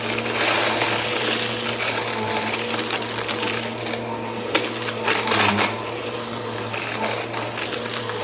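Bissell vacuum cleaner running steadily, its motor humming under a rush of air that swells and fades as it is pushed back and forth. There are louder surges about a second in and again about five seconds in.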